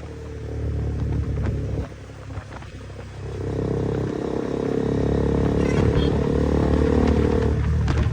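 KTM motorcycle engine running through a newly fitted aftermarket exhaust. It eases off briefly about two seconds in, rises again a second later and stays loud until it drops off suddenly near the end.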